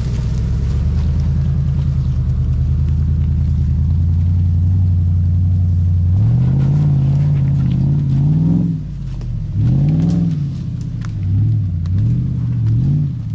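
Toyota LandCruiser 100 Series 4WD engine running at steady revs, then revving up and down several times from about six seconds in, as the vehicle reverses out of a tight spot on a bush track.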